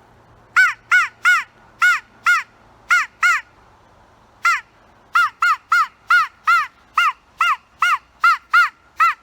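DIY crow call blown in a series of loud caws, each rising and falling in pitch: a group of three, then pairs, then a long quick run of about a dozen, with a good crow-like sound.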